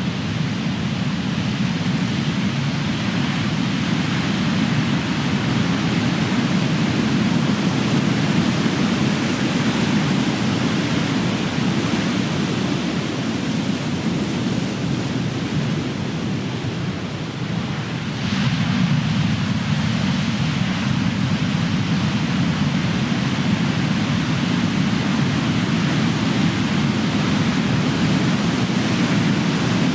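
Big ocean waves crashing and surf rushing in a steady roar of noise, easing slightly a little past halfway before a fresh wave breaks and the wash swells again.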